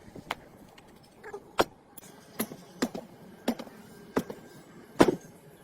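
Irregular sharp knocks, about eight in five seconds, the loudest one near the end: hand-tool work on parts.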